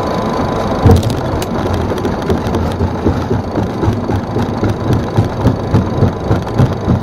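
Boeing 737 touching down, heard from the cabin: a hard thump about a second in as the main gear meets the runway, then the wheels rumbling along the runway with a run of low, regular bumps.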